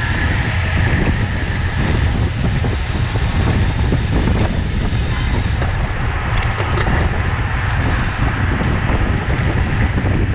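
Wind rushing over the microphone of a camera carried on a racing bicycle at speed: a steady, loud low rumble.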